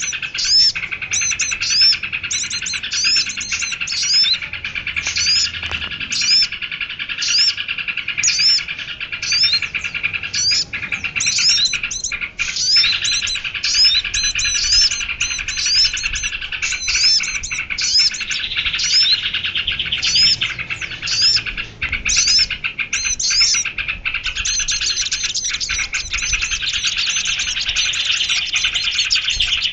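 Recorded bird-lure track of small songbirds calling together: sharp high chirps repeating about twice a second over a dense, continuous trilling chatter, which becomes an unbroken trill near the end.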